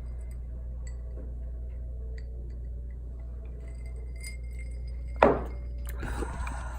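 Faint scattered glassy clinks over a steady low hum, with one sharp knock about five seconds in.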